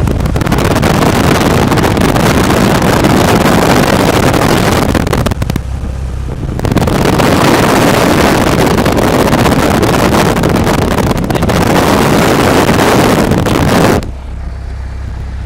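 The Cessna 172's propeller engine drones steadily under a loud rushing of air across the microphone. The rushing eases for about a second around six seconds in and drops away near the end, leaving the engine drone.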